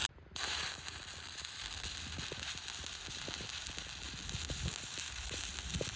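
Shielded metal arc (stick) welding with a 3/32-inch 7018 rod at 85 amps: the arc crackles and sizzles steadily with dense irregular pops while a vertical uphill fillet pass is run. The sound drops out for a split second right at the start.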